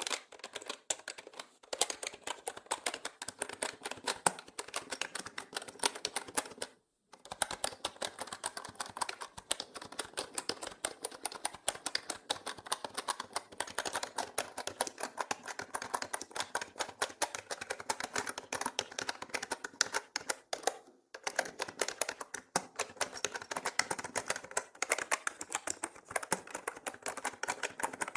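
Fast, continuous typing on a mechanical keyboard, a dense run of key clicks that stops briefly about a second and a half in, again about seven seconds in and at about twenty-one seconds. The sound is processed as 8D audio, panned around the listener.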